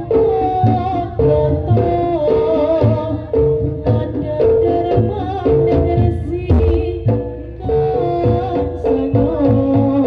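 Live jaranan (kuda lumping) ensemble music: drums beat under a repeated held mid-pitched note, with a wavering melody line running over them.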